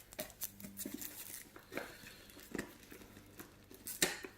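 Plastic packaging crinkling and small plastic parts clicking and knocking as a Marina breeder box is unpacked by hand, with a sharper knock about four seconds in.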